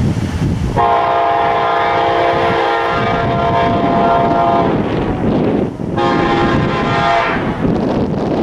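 Passing diesel locomotive's multi-chime air horn: a long blast of about four seconds, then a shorter blast of about a second and a half, with low rumble and wind buffeting the microphone underneath.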